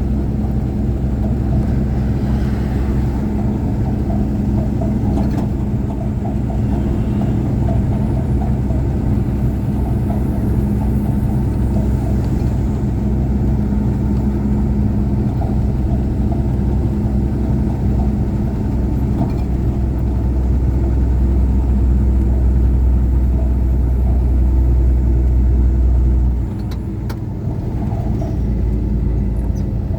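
Heavily loaded truck's engine running steadily while driving, with a low rumble. The engine note and loudness drop suddenly near the end, then pick up again.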